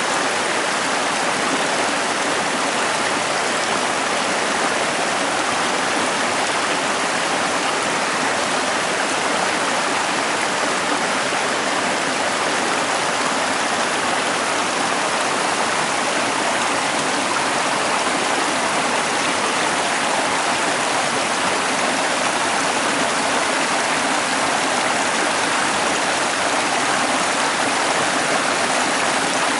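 The Prut river's headwaters, a Carpathian mountain stream, running steadily with an even, constant rush of water.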